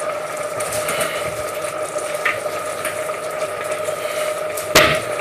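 A steady kitchen hum with a clear pitch over a light hiss, and one sharp knock near the end.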